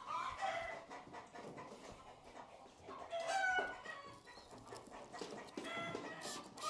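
Chickens calling in the background: a few short squawks that fall in pitch, one near the start, one about three seconds in and one near the end.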